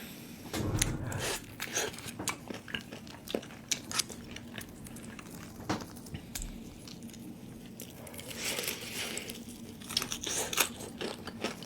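Close-miked biting and chewing of crispy Jollibee spicy fried chicken: scattered crunches and mouth clicks, with a denser crunchy stretch about eight seconds in.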